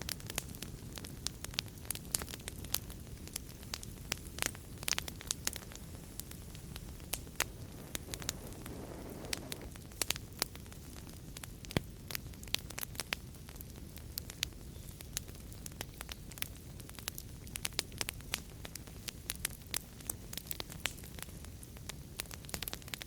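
Wood fire in a fireplace crackling: frequent sharp pops and snaps over a steady low rumble of the flames, with a brief soft rush about nine seconds in.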